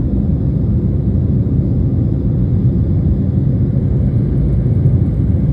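Steady low rumble of a Boeing 737 in flight, engine and airflow noise as heard inside the passenger cabin.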